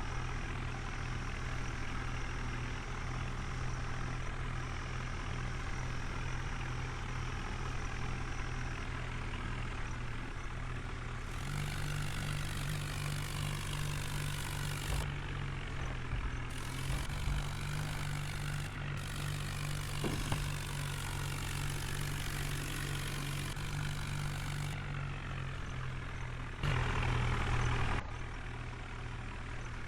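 New Holland tractor's diesel engine running steadily while pulling a loaded trolley. The engine note steps up about eleven seconds in, eases back near the end, then briefly gets louder for a second or so.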